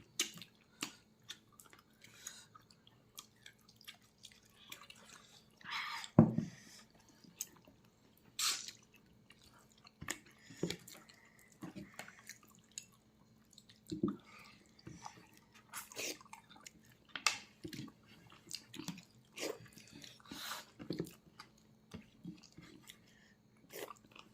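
A person chewing pork leg with wet, irregular smacking and clicking mouth sounds; one louder smack comes about six seconds in.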